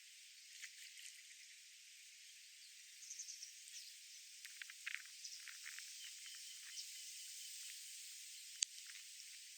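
Faint outdoor park ambience: a steady high hiss with scattered short, high chirps and ticks, and one sharp click near the end.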